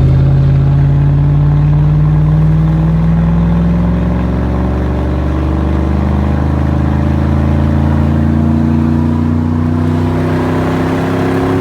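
Squatted pickup truck's engine under long, sustained acceleration: a loud, steady exhaust drone whose pitch climbs slowly as the truck picks up speed.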